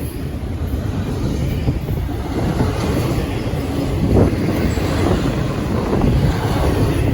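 CSX freight train's cars rolling past, a steady rumble with a louder clank about four seconds in.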